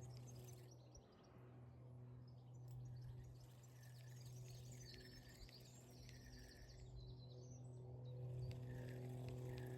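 Small birds chirping and calling repeatedly, quietly, over a steady low hum.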